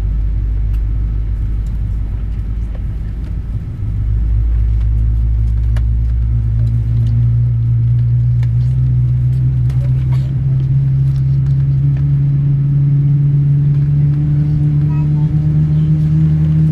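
Jet engines of a Boeing 777-300ER, GE90 turbofans, with a low rumble and a steady hum that slowly rises in pitch. The rumble grows a little louder about four seconds in.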